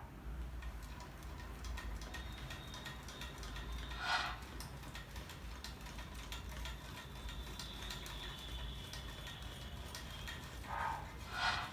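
Homemade Stirling engine running, with faint steady ticking over a low hum. Three brief louder sounds stand out, one about four seconds in and two near the end.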